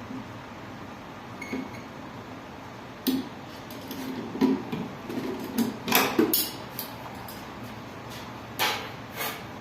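Irregular metallic clinks and knocks of an Allen key and metal parts being handled while a window air conditioner's fan motor, blower and fan blade are fitted back in, with a handful of sharper knocks in the second half.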